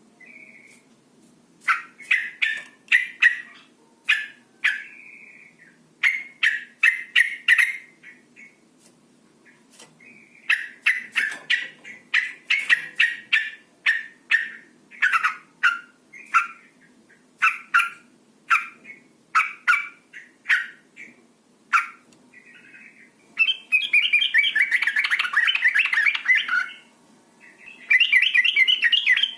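Female yellow-vented bulbul calling: runs of quick, short 'cuk' chirps in groups of several, then two longer harsh chattering bursts near the end. These are the calls of a female in breeding mood, used to stir males into calling.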